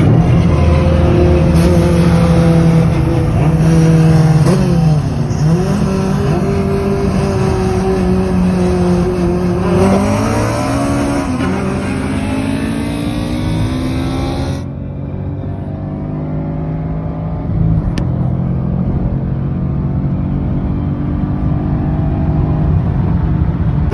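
Car engines at full throttle during a roll race, heard from inside one of the cars. The engine pitch dips and climbs through gear changes, then rises steadily under acceleration. The sound changes abruptly about fifteen seconds in.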